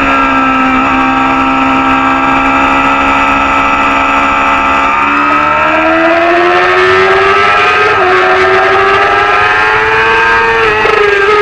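Supersport 300-class racing motorcycle engine running hard at high revs: it holds a steady pitch for about five seconds, then climbs steadily as the bike accelerates, with a short dip about two thirds of the way in.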